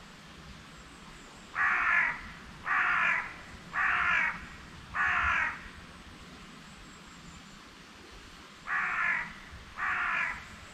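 A bird giving harsh caws: four calls about a second apart, then after a pause two more, over a steady background hiss.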